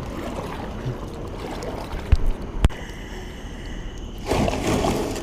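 Kayak being paddled across a lake: water splashing and trickling off the paddle, with two sharp knocks about two seconds in and a louder swell of splashing near the end.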